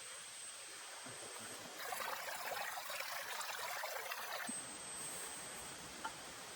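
Steady hiss of rain, with a louder rush of pouring water for about three seconds in the middle that starts and stops abruptly.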